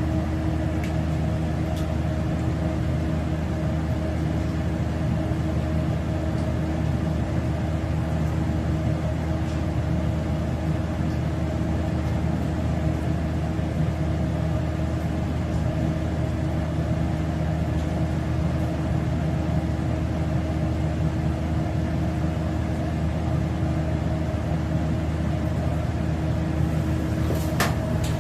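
A steady machine hum with a few fixed low tones that holds at one level throughout, and a brief sharp sound near the end.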